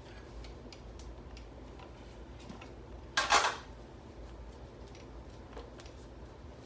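Metal tools and hub parts clinking and ticking as they are handled, with one louder metallic clatter lasting under half a second about three seconds in.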